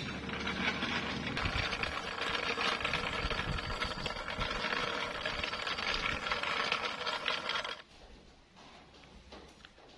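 Small wooden cart's wheels rattling steadily as a monkey pulls it along rough ground. The rattle stops suddenly near the end, leaving faint room sound.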